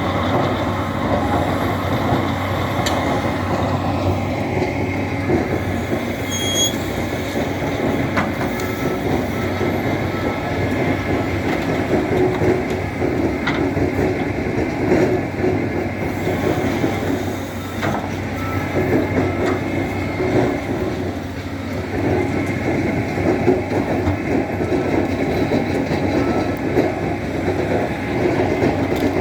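Tractor shovel loader's diesel engine running steadily, with a constant low hum. Metal clanks and rattles and occasional short squeaks sound throughout as it works.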